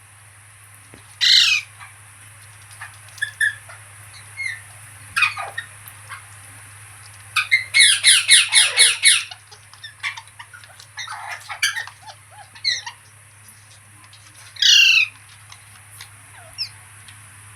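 A pet green parrot screeching: one harsh call about a second in, a rapid run of about eight screeches around the middle, softer chirps in between, and another harsh call near the end.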